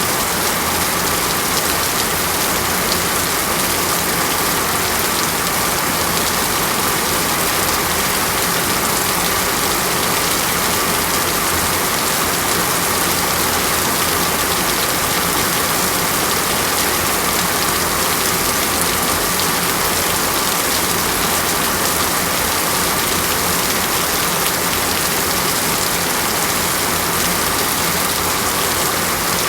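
Heavy rain falling steadily in a rainforest, an even hiss with no let-up and no thunder.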